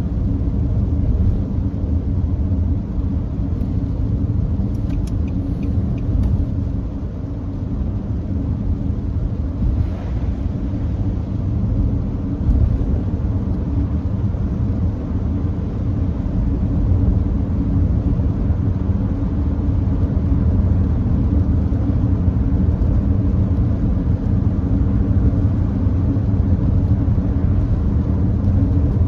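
Steady low rumble of tyre and road noise from a Nissan Note e-POWER cruising at a constant speed on a wet expressway.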